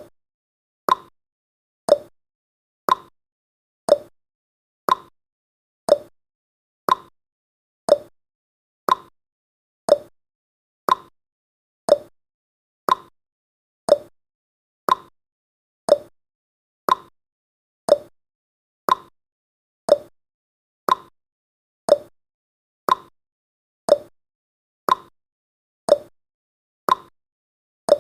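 Clock ticking sound effect, one tick per second, alternating between a higher tick and a lower tock.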